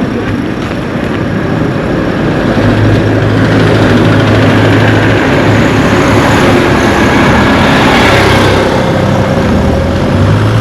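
A motor vehicle passing close by on the road, its engine hum steady and low, growing louder to a peak about eight seconds in and then easing off.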